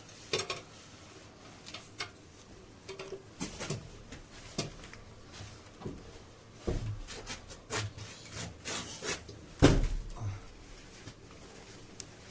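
Scattered metal clanks, knocks and rubbing of tools and parts as a car's front subframe is raised back into place, with one sharp, loud knock about ten seconds in.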